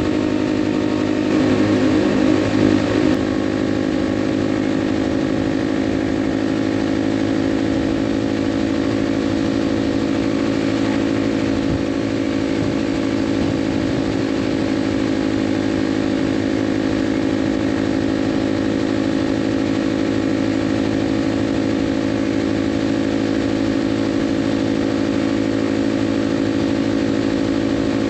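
Kawasaki KLX 300's single-cylinder four-stroke engine running at a steady highway cruise, its pitch holding even, with a brief louder wavering rush lasting about two seconds a second in.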